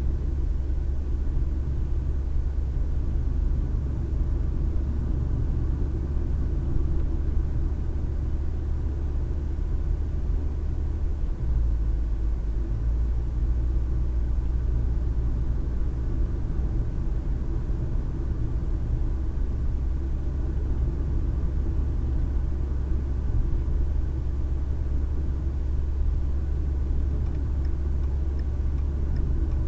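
Car driving, heard from a dash cam inside the cabin: a steady low rumble of engine and tyre noise, which shifts slightly in its low tone about eleven seconds in.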